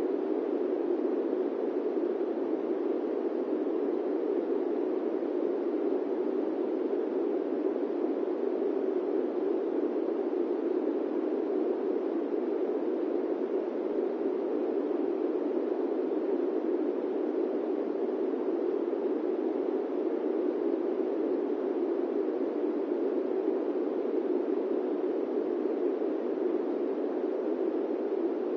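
Steady airplane cabin noise: an even, unbroken rushing hiss sitting in the low-middle range, with no changes in level or pitch.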